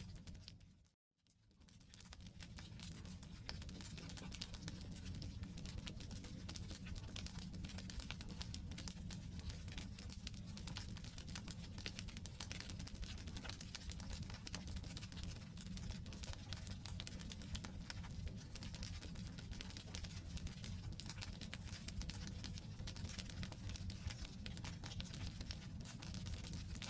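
Wood campfire burning, with dense irregular crackling and popping over a steady low rumble. The sound drops out completely for a moment about a second in, then fades back in.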